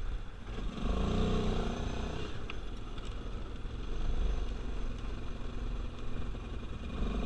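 ATV engine running at low speed as the quad is driven a short way, its pitch rising and falling with the throttle.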